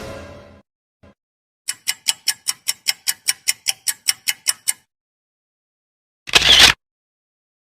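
Clock-ticking sound effect: a run of about seventeen quick, evenly spaced ticks, roughly five or six a second, lasting about three seconds. Near the end comes one short, loud, hissy burst, and a previous effect fades out at the very start.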